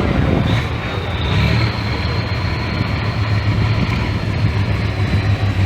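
Heavy truck engine running steadily with a deep, even low hum.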